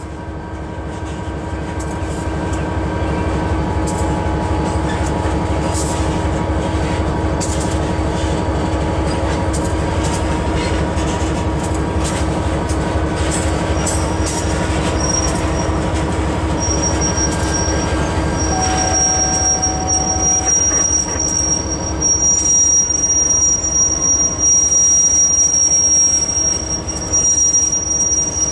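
Train rolling past with the low steady rumble of a diesel locomotive and scattered clicks of wheels on the rail. About halfway in, a high, thin wheel squeal starts and comes and goes, then holds steady and grows louder toward the end.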